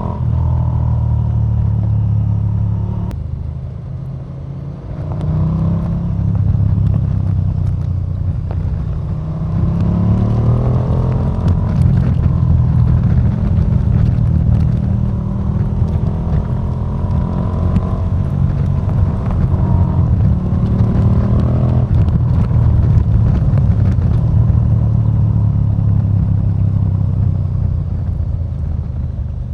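KTM 1290 Super Duke R's big V-twin engine under way. It eases off about four seconds in, then accelerates hard with a rising pitch from about nine seconds and keeps running at high revs, with brief dips, until it eases slightly near the end.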